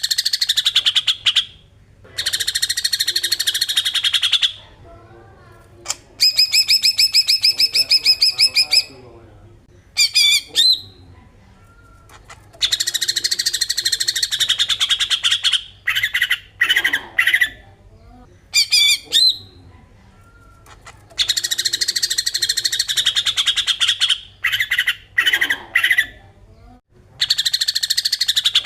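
Cucak ijo (green leafbird) giving its besetan: bursts of fast, harsh chattering a few seconds long with short pauses between them, and a quick run of clear repeated notes about a quarter of the way in.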